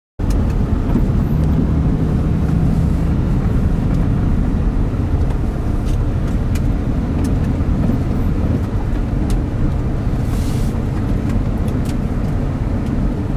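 Steady engine and road rumble inside a moving pickup truck's cabin, with a brief hiss about ten seconds in.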